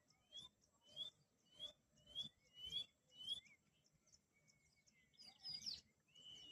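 White-bellied seedeater (chorão) singing in the 'cigarra rainha' song style: six rising whistled notes, about one every 0.6 s, then a busier warbled phrase and one long whistled note near the end. The song is faint.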